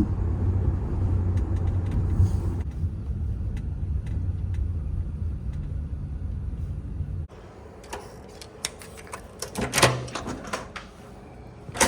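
Steady low rumble of a car in motion, heard from inside, for about seven seconds. It cuts off abruptly to a quieter room with scattered clicks and a knock near the end.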